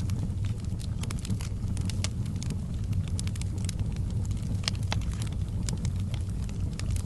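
Wood fire burning in a fireplace: a steady low rumble of the flames with frequent sharp crackles and pops, several a second.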